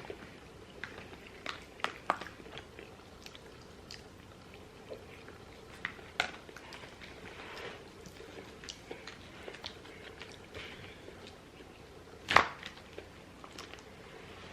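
Close-up eating sounds: chewing and biting, with scattered small clicks and taps, and one sharp knock about twelve seconds in.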